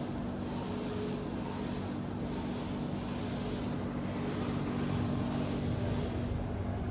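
Steady low mechanical hum over a noisy background, the low rumble growing a little louder near the end.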